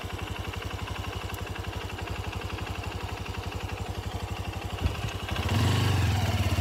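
Small motorcycle engine idling with an even low pulse, then revving up about five seconds in as the bike pulls away.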